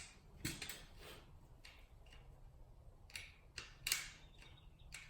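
Faint, scattered taps and light scraping of hands pressing and rubbing a rubber patch onto the inside of a tractor tire, a few sharper clicks bunched together about three to four seconds in.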